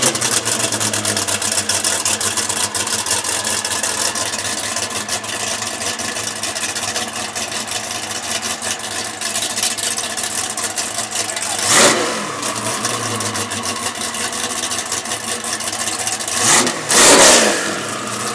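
Hennessy Venom F5 Roadster's twin-turbo V8 just fired up and idling, with a throttle blip about twelve seconds in and two more close together near the end, the last the loudest.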